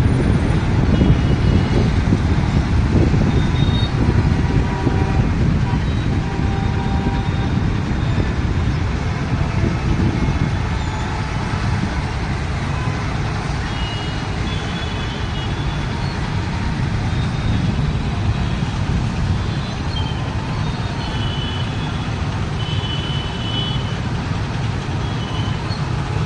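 Heavy road traffic: a steady rumble of engines and tyres, with short horn toots sounding now and then throughout.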